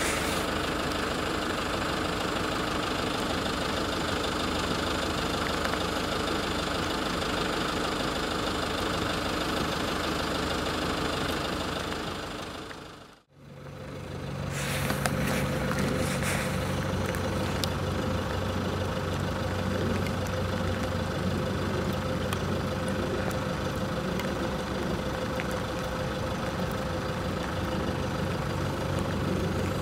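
Vehicle engine idling steadily under a constant hiss. The sound fades out and back in about 13 seconds in, then the idle runs on with a steadier hum.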